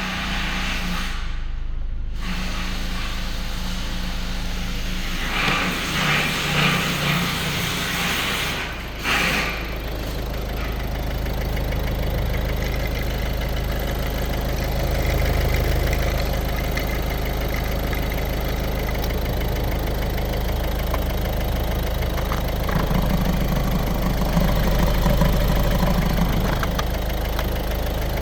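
Ford Focus 1.6 TDCi four-cylinder diesel engine (T1DA) idling, being run to test its condition.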